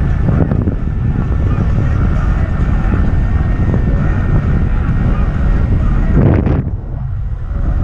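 Wind buffeting the microphone during an electric skateboard ride: a heavy, steady low rumble. A louder surge comes about six seconds in and then briefly drops away.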